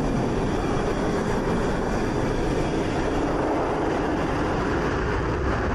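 Steady noise of jet engines running, an even, unbroken rumble with no distinct strokes or changes.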